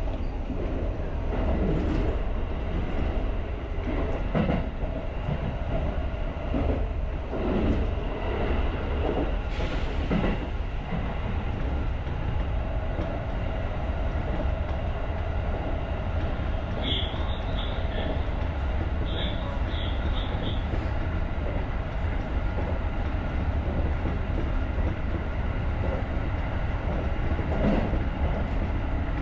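JR rapid electric train running along the line, heard from the cab: a steady low rumble with a few knocks from the wheels over rail joints in the first ten seconds. Two short bursts of high beeping come about two-thirds of the way through.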